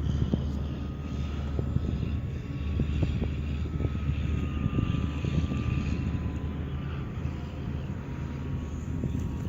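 Electric RC airplane in flight, its brushless outrunner motor and propeller giving a thin whine that drifts slightly up and down in pitch, over a steady low rumble.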